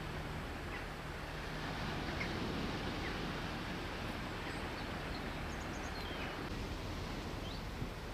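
Outdoor ambience: a steady hiss with a few faint, high bird chirps about halfway through.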